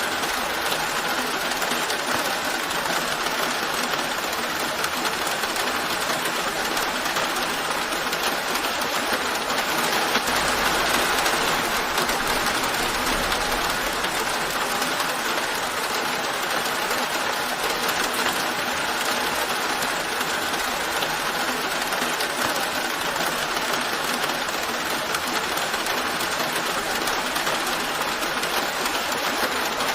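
Steady rain, an even dense patter, with a soft low rumble for a few seconds about a third of the way in.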